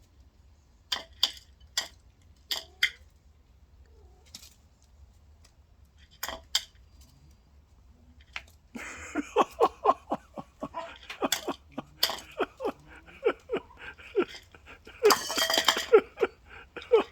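A few sharp clicks, then from about halfway a rapid run of short taps and clinks on a dish, as a chicken pecks at feed. Near the end there is a brief burst of rustling.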